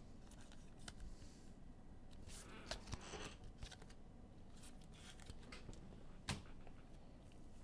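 Faint rustling and a few light clicks of trading cards being handled and flipped through, with the sharpest click about six seconds in.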